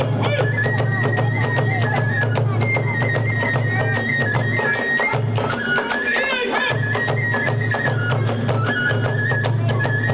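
Kagura hayashi music: a bamboo fue flute plays a high melody in long held notes over fast, dense drum beats and clashing hand cymbals.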